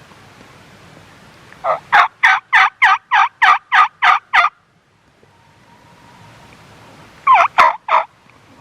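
Turkey calling: a quick run of about ten evenly spaced notes, then a short run of three more near the end.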